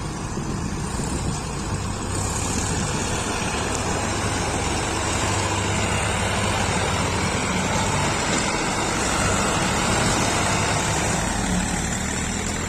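Sonalika MM-35 tractor's diesel engine running steadily under load while pulling a heavily loaded trolley.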